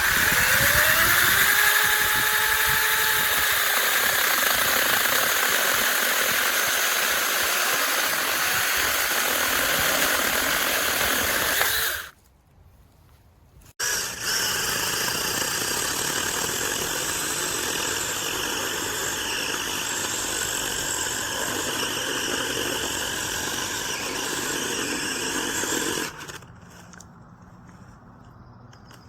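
V-Modest cordless battery mini chainsaw running in two long bursts. The motor spins up with a rising whine at the start, cuts off about twelve seconds in, starts again about two seconds later and stops near the end.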